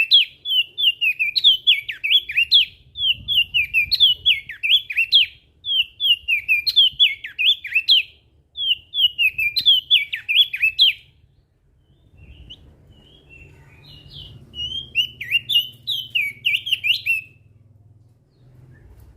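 Opior jambul (crested white-eye) singing: quick, twittering chirp phrases a second or two long, repeated with short breaks. The song stops about eleven seconds in, returns softly, then ends in one more run near the end, with a faint low hum underneath in the later part.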